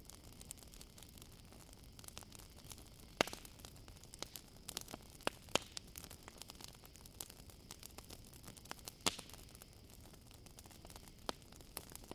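Campfire crackling: irregular sharp pops and snaps, the loudest about three seconds in and again about nine seconds in, over a faint steady high chirring of crickets.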